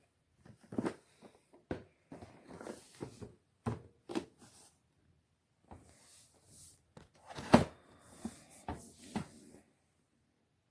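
Handling noises: a string of irregular clicks, knocks and rustles, the loudest knock about seven and a half seconds in.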